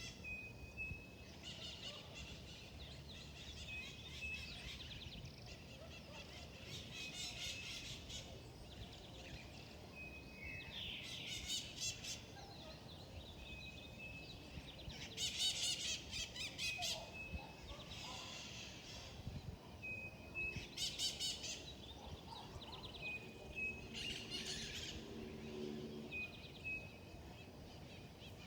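Wild birds calling: a short whistled note repeats every two or three seconds, and bursts of fast, high chirping trills come in several times over a steady low background hum.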